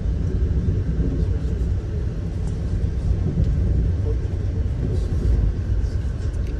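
Amtrak passenger train in motion, heard from inside the coach: a steady low rumble of the wheels running on the rails.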